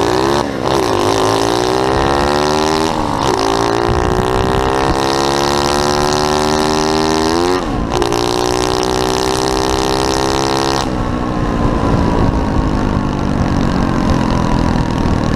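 SSR 125cc pit bike's single-cylinder four-stroke engine at full throttle, accelerating through the gears: the revs climb and drop sharply at each of three upshifts. About eleven seconds in the throttle comes off and the revs fall away.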